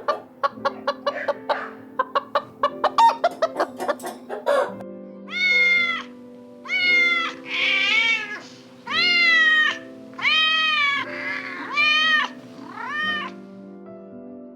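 A chicken clucking in quick short notes, then a domestic cat meowing about six or seven times, each meow rising and falling, over background music.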